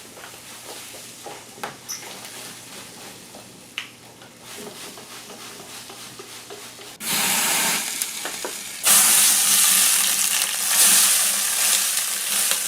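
Faint scattered clicks, then about seven seconds in a sudden loud, steady sizzling hiss that drops back briefly and returns louder about two seconds later.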